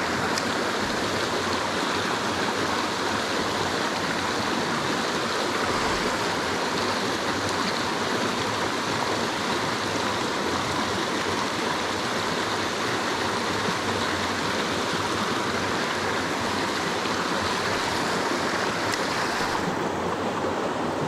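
River rapids rushing steadily over rocks, a constant wash of water.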